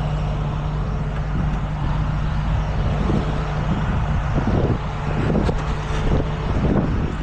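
Heavy truck engine idling steadily. From about three seconds in there are a few short knocks.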